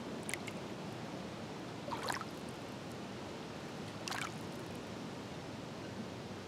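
Small lake waves lapping and splashing at the water's edge: three short splashes, about 2 seconds apart, over a steady wash of water.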